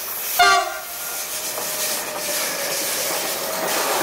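Class 185 electric locomotive sounds a short horn blast about half a second in. Then the steady noise of its container wagons rolling past close by grows louder.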